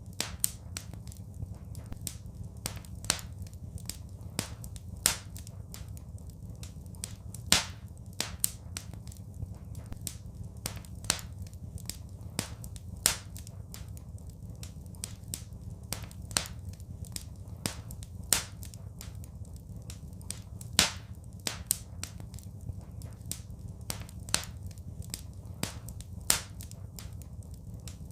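Wood fire crackling in a fireplace: irregular sharp pops and snaps, a few of them much louder, over a steady low rumble.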